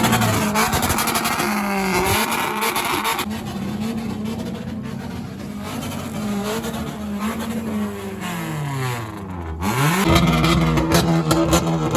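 Car engine being revved over and over, its pitch climbing and dropping. Near the end it falls low and then climbs sharply again.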